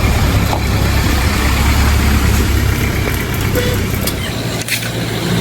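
A motor running with a steady low hum under a broad hiss; the hum drops away about four and a half seconds in.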